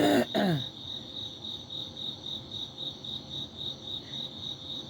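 Crickets chirping steadily in a high, evenly pulsing trill.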